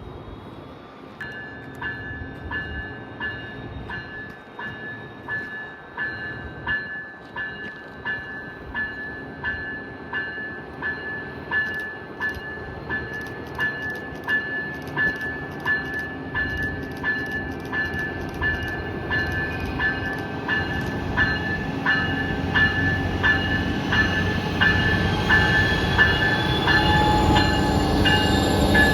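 Train approaching with its bell ringing steadily, about one and a half strikes a second, over a rumble that grows louder. A whine rises in pitch over the last several seconds.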